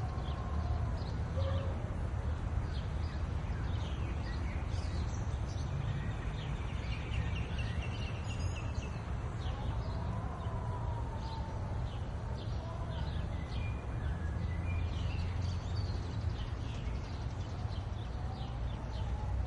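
Small birds chirping and twittering in many short, quick calls over a steady low rumble. Three times, a drawn-out tone rises and falls beneath them.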